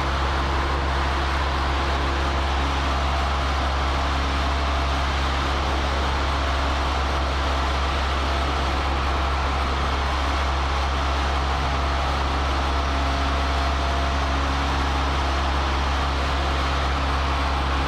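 Cessna 152's four-cylinder Lycoming engine and propeller droning steadily in flight, heard from inside the cockpit.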